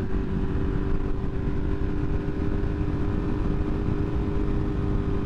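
Motorcycle engine running at a steady cruise, its pitch holding level, over a constant low rush of wind and road noise.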